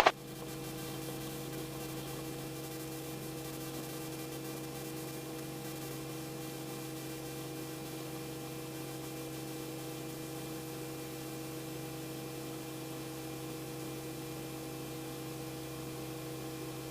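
Steady electrical hum made of several fixed tones, with a faint hiss over it.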